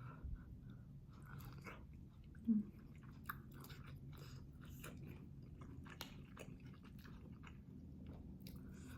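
A person chewing and biting food, with irregular crisp crunches throughout and a brief louder low sound about two and a half seconds in.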